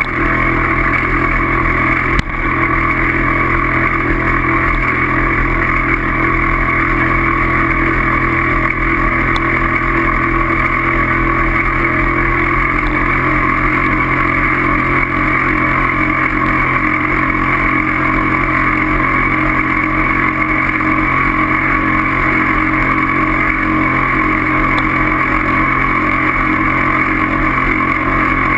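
Steady, loud noise of riding on a bike, an even drone that holds the same pitch throughout, with a single knock about two seconds in.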